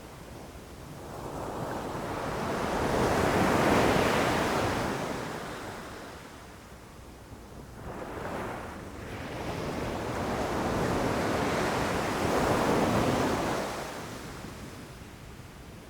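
Ocean waves rushing in and crashing, in two long surges: one builds and fades in the first half, then after a brief rush a second, longer surge swells and falls away near the end.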